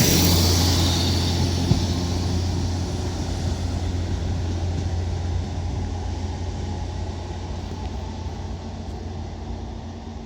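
Northern Class 769 bi-mode multiple unit pulling away from the platform. Its low, steady drone fades gradually as the train moves off.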